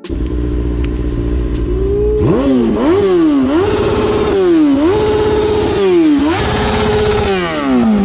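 A car engine revved hard: after a low rumble it climbs about two seconds in and is held at a steady high pitch, dropping briefly and climbing back four times, then winds down near the end.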